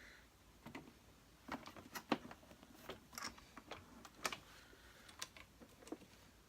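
Irregular light clicks and knocks of hard parts being handled on a Hoover Senior Ranger upright vacuum cleaner, as its bag holder on a makeshift bracket is fitted and checked.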